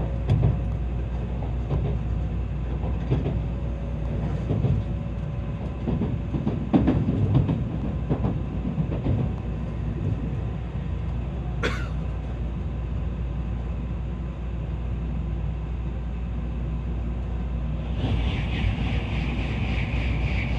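Tokaido Shinkansen train running at speed: a steady low rumble with scattered short knocks from the wheels on the track, and a brief sharp squeal about two-thirds of the way in. Near the end the sound changes abruptly to a brighter, steadier hiss.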